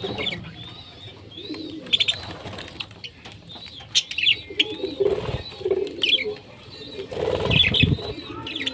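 Parrots calling in short, repeated, arching chirps, with lower cooing notes among them and two brief rushes of wing flapping, about five and seven and a half seconds in.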